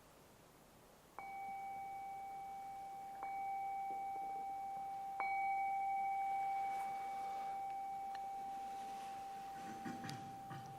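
Singing bowl struck three times, about two seconds apart. Each strike renews one steady ringing tone, loudest after the third strike, which then lingers and slowly fades. Faint rustling and small clicks come near the end.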